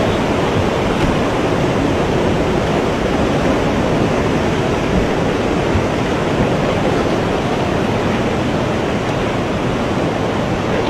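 Floodwater rushing in a steady, dense noise that does not let up.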